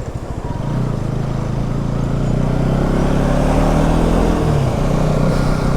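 Motorcycle engine running while riding, with wind rush on the microphone. The engine note climbs for a couple of seconds, then drops about four and a half seconds in.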